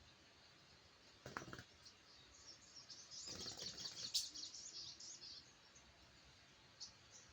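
Short, high chirps from a wild-caught sogok ontong (spiderhunter), clustered in the middle with a few more near the end. A soft knock comes about a second in, and a brief fluttering rustle comes around the third second.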